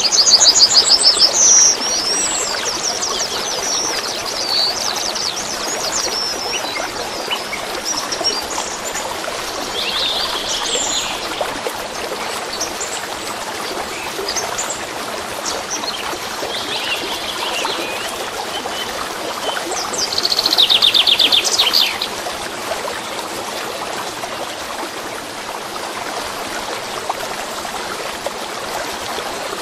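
Steady flow of a small stream with songbirds singing over it. Several rapid trills come in the first two seconds, shorter phrases follow in the middle, and a louder trill lasts about two seconds near the end.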